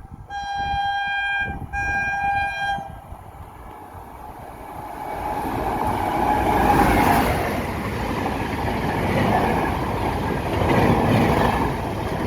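WAP-7 electric locomotive horn sounding in three blasts over about three seconds. The high-speed express then rushes past, its rumble and wheel clatter swelling to a peak near the middle and staying loud to the end.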